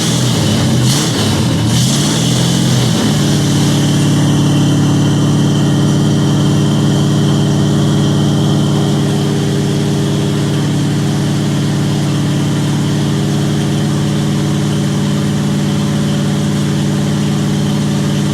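Big-block Ford 460 V8 just after a cold start. For the first few seconds it runs unevenly with a wavering pitch, then it settles into a steady idle that eases slightly about nine seconds in. The engine is cold and its Holley Street HP carburetor has no choke.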